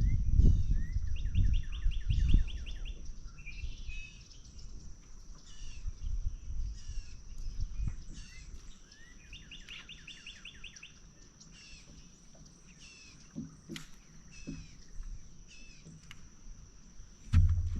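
Songbirds singing, with many short high chirps and a rapid trill of about ten notes repeated twice, over a steady high-pitched tone. Wind rumbles on the microphone in the first couple of seconds.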